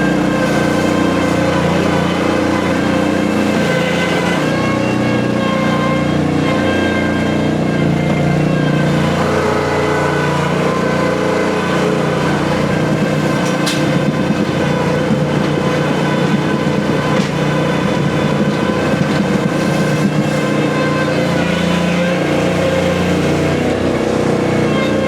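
Skid steer engine running steadily, its pitch shifting slightly now and then as the machine is driven.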